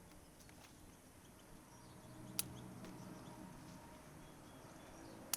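Faint outdoor background with two sharp clicks, one about two and a half seconds in and one at the very end, over a low faint steady sound.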